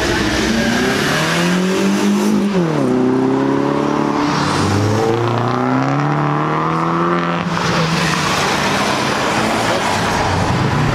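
Car engine revving hard as it accelerates away, the pitch climbing, dropping sharply about two and a half seconds in, then climbing again. A different engine sound takes over abruptly about seven and a half seconds in.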